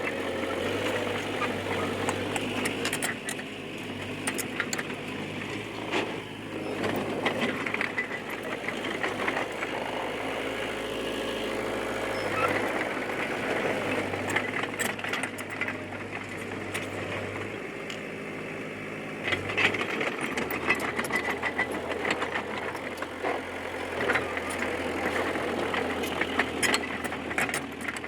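D20P bulldozer's diesel engine running under work, its speed shifting several times, with scattered clanks and knocks.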